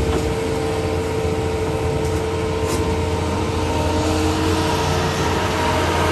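Heavy diesel construction machinery running steadily: a low engine rumble with a constant whine above it, neither revving up nor down.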